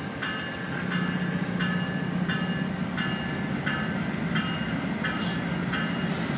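An approaching Amtrak diesel passenger train, its engine a steady low hum, with a bell ringing in an even rhythm of about three strokes every two seconds.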